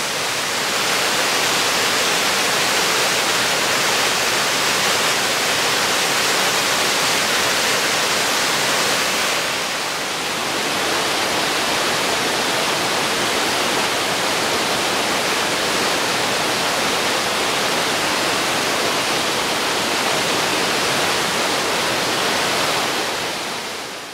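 Waterfall rushing steadily: a dense, even hiss of falling water that dips slightly about ten seconds in.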